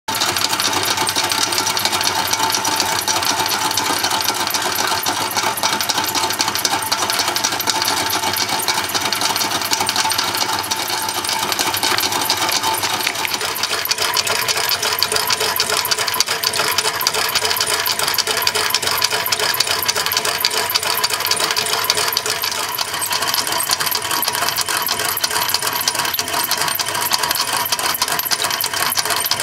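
Märklin tinplate waterfall toy driven by an electric motor, starting up suddenly and then running with a fast, steady mechanical clatter of clicking and rattling.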